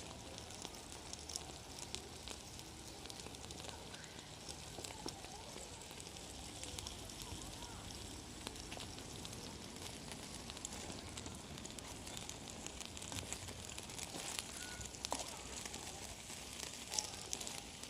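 Small campfire crackling, with many light pops and one louder pop near the end.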